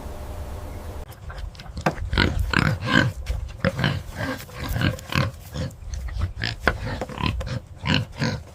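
Pigs calling in a rapid run of short, closely spaced calls, starting about a second in after a steady hiss.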